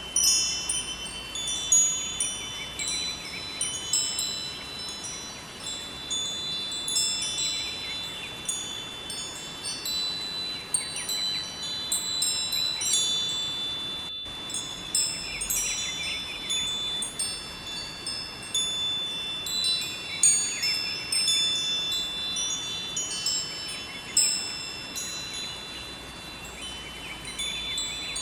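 Wind chimes ringing continuously, many high tones struck and overlapping, over a faint steady rush that is the river water. The sound drops out for an instant about halfway through.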